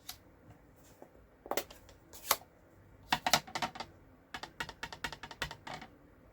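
Light plastic clicks and taps from handling a rubber stamp and ink pad: a couple of separate clicks, then a quick irregular run of taps about three seconds in.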